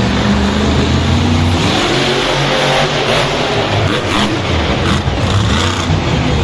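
Monster truck engine running loud and revving, its pitch climbing about two and a half seconds in.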